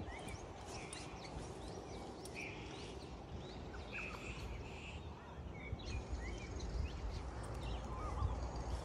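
Birds calling with many short chirps and quick rising and falling notes, over a low, constant rumble that grows a little louder in the second half.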